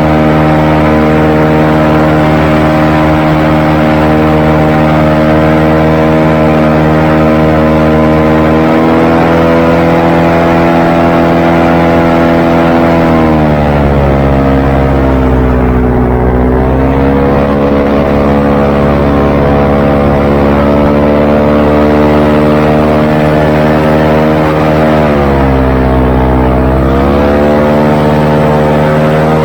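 Airboat engine and propeller running loud and steady at speed. The pitch sinks about halfway through as the throttle eases, dips again a few seconds before the end, then climbs back up.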